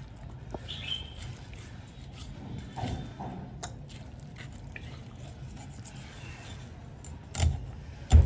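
Light clicks and handling noises of food preparation over a low steady hum, then two loud knocks near the end.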